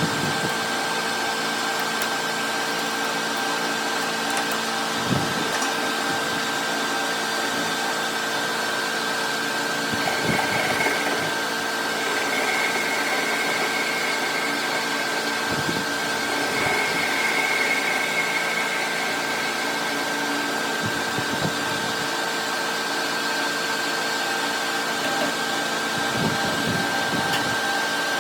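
A shop machine's electric motor running steadily with a constant hum. A faint higher whine comes and goes in the middle, with a few light knocks.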